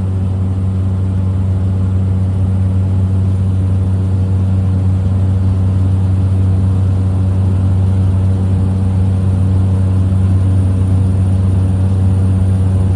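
Small plane's engine and propeller droning steadily in flight, an even unchanging hum.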